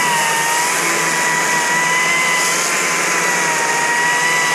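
Stihl MSA 60 C battery-powered chainsaw running under load, its electric motor giving a steady high whine over the rasp of the chain cutting into wood.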